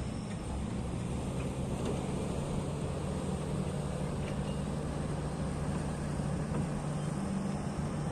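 Heavy earthmoving machinery's diesel engine running steadily with a constant low hum.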